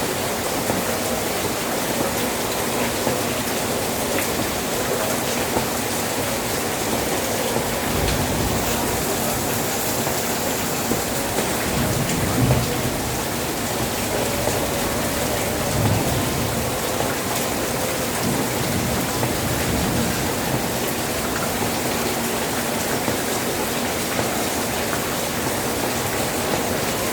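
Steady rain pouring down, with two brief low rumbles about twelve and sixteen seconds in.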